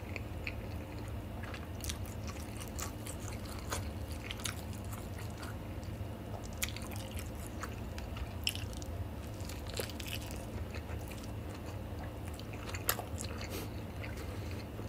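Close-miked chewing of gimbap (seaweed-wrapped rice roll), with scattered small wet mouth clicks, over a low steady hum.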